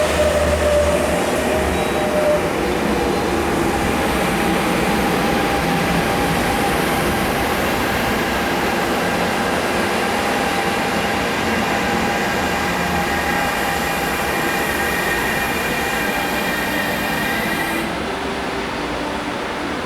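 CAF-built MTR Tung Chung Line electric train running at the platform: a motor whine that falls in pitch over the first two seconds, then steady running noise carrying faint tones. The high end drops away suddenly near the end.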